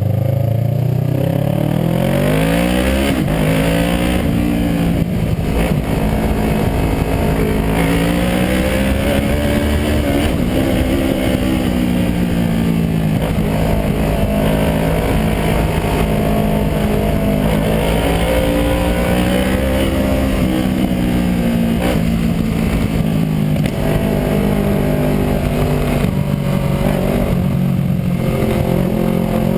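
Kawasaki ER-6n's 649 cc parallel-twin engine breathing through an aftermarket WR exhaust, revs rising steeply over the first few seconds as it accelerates, then cruising with gentle rises and falls in revs.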